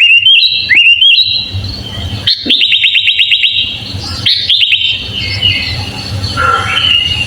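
Sooty-headed bulbul singing: short whistled phrases and rapid trills of quick repeated notes, about three seconds in and again near five seconds, over a low steady hum.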